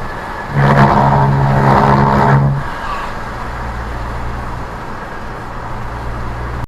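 A vehicle horn sounding for about two seconds with two brief breaks, over steady road and engine noise from a moving car.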